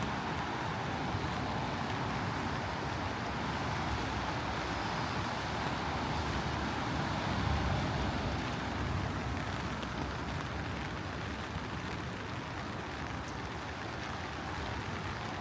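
Steady rain with the low hum of street traffic, a continuous hiss with no single event standing out.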